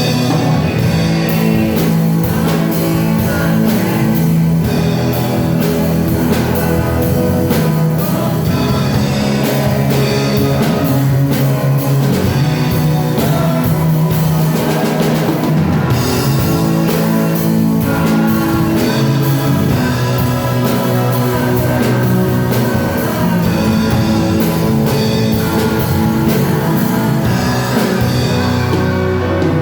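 Live worship band playing a praise song: drum kit keeping a steady beat under guitars and sustained bass notes.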